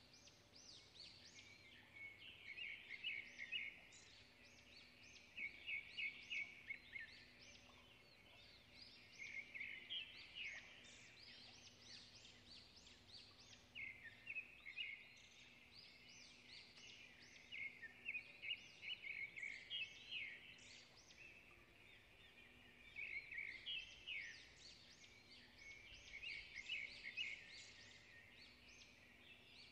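Faint bird song: phrases of quick, high chirps and trills a few seconds long, with short pauses between them.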